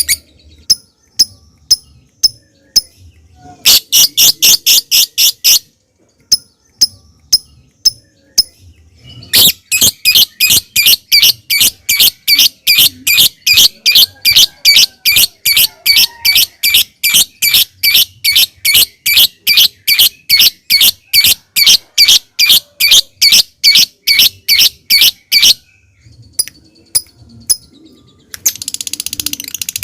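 Lovebird calling: sharp single chips spaced a second or so apart, the 'ngetik' ticking, alternating with long runs of shrill repeated calls at about three a second, the 'ngekek' chatter. The longest run lasts about sixteen seconds, and a denser, buzzier chatter starts near the end.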